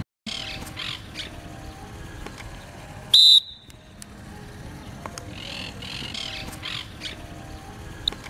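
Referee's whistle blown once in a short, shrill blast about three seconds in, calling a foul. Birds chirp faintly.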